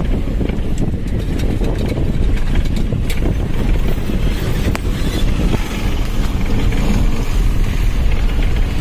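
Steady, loud low rumble of wind buffeting the microphone outdoors, with a few faint clicks.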